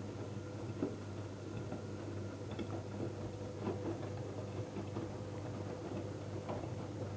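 Electrolux washing machine running, a steady motor hum with scattered light clicks and knocks at irregular intervals.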